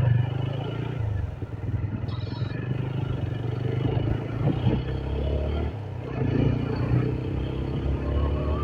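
TVS Apache RTR motorcycle engine running steadily under way, with wind and road noise; its note climbs slightly from about six seconds in as the bike picks up speed.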